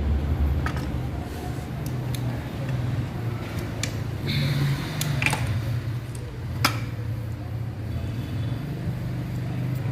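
Metal parts and hand tools clinking a few times during motorcycle clutch work, over a steady low machine hum.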